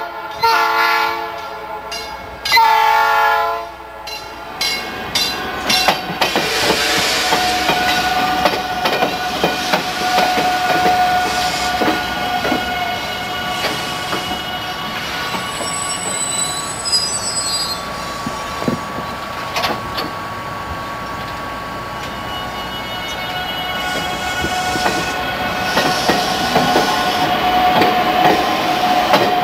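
South Shore Line electric multiple-unit train sounding its horn twice on approach, the second blast louder, then passing close by: a steady rumble of wheels on rail with occasional clacks, a steady whine running through it and a brief high wheel squeal about halfway through.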